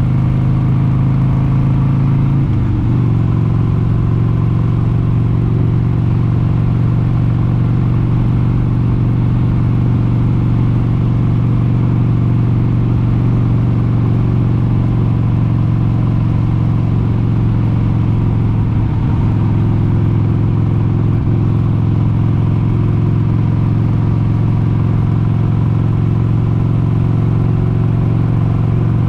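1996 Harley-Davidson Sportster 883 Hugger's 883 cc Evolution V-twin running steadily at cruising speed. The engine note drops a little about two and a half seconds in, then holds steady.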